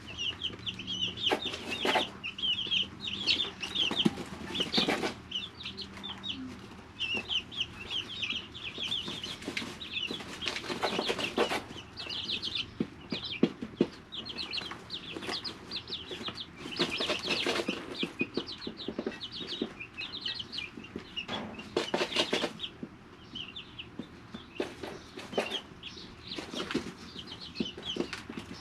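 A brood of three-week-old chicks peeping: many short, high chirps one after another, almost without a break. Repeated short bursts of rustling come in over the peeping.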